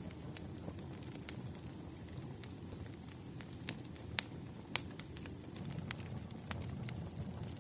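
Wood fire crackling: irregular sharp pops and snaps of varying strength over a steady low rumble, with two louder pops about four and five seconds in.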